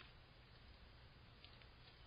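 Near silence: faint background hiss with one soft tick about one and a half seconds in.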